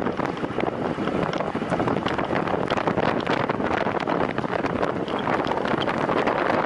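Wind rushing over the microphone of a camera carried by a cyclist riding a time-trial bike at speed, with frequent small clicks and knocks.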